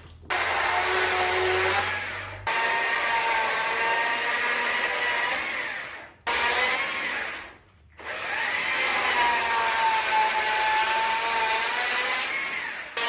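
Power carving tool running at high speed into wood, a steady whine that shifts slightly in pitch. It comes in short spliced stretches that cut off abruptly, with a brief break at about two and a half seconds and a longer gap around the middle.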